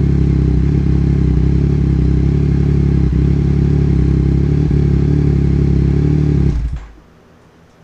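2021 Yamaha MT-09's 890 cc inline-three idling steadily and loud through an Akrapovic Carbon Racing Series exhaust with its baffle removed, then shut off about six and a half seconds in.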